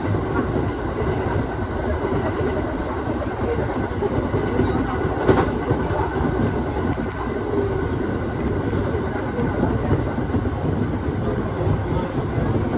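Aoimori Railway 701-series electric train running, heard from the cab: a steady rumble of wheels on rail, with one sharp knock about five seconds in.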